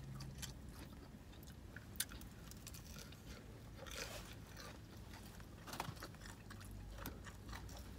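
Faint chewing and crunching of fried chicken, with a few scattered short clicks.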